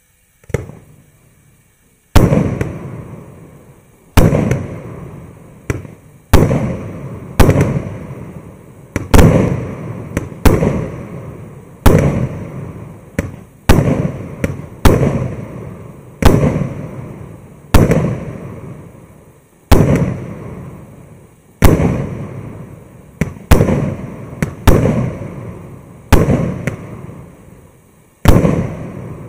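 600-shot, 1.2-inch "Evgran" fireworks cake firing: a small pop, then a steady run of loud shell bursts about every one to two seconds, each trailing off in a rumble and crackle.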